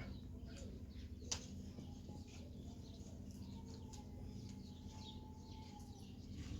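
Faint bird chirps scattered over a low steady hum, with one sharp click about a second in.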